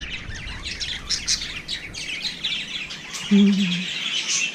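Many small birds chirping and chattering at once in a dense, continuous chorus. A short low hum stands out about three seconds in.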